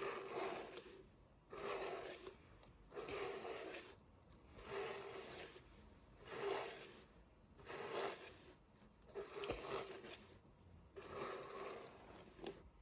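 A massage hairbrush drawn through hair in slow, even strokes, each a soft scratchy swish of under a second, about one every second and a half.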